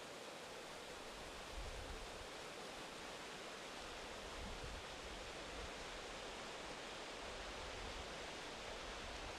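A river's water rushing in a steady, unbroken wash, with a low rumble coming and going beneath it.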